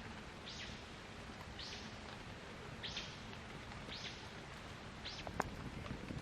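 A bird calling: one short falling note repeated about once a second, six times in all, over a steady outdoor hiss. A single sharp click comes about five and a half seconds in.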